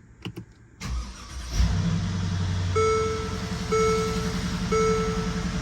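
Mercedes-Benz GL 450's V8 engine cranking briefly and catching about a second and a half in, then idling steadily, after a couple of faint clicks as the key is turned. It starts on a newly replaced crankshaft position sensor, the fix for its hot-start trouble. From about three seconds in, a chime sounds roughly once a second over the idle.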